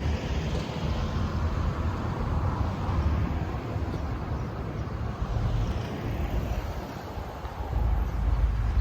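BMW 135i's twin-turbo inline-six engine running, a steady low rumble that grows louder near the end.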